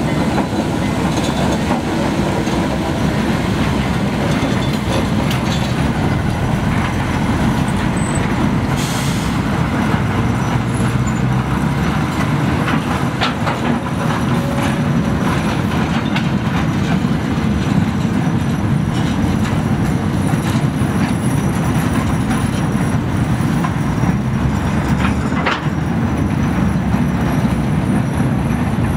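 A work train rolling past: first a GE 45-ton diesel switcher locomotive, then the Harsco R252 subway flatcars it tows. It makes a steady low rumble, with frequent clicks as the wheels cross the rail joints.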